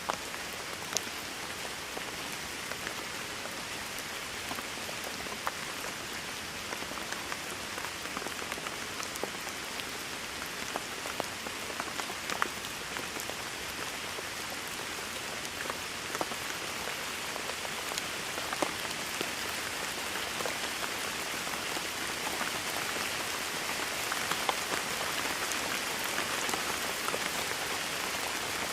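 Steady rain falling on a hard surface, with many single drops ticking sharply here and there. The rain gets slightly heavier in the second half.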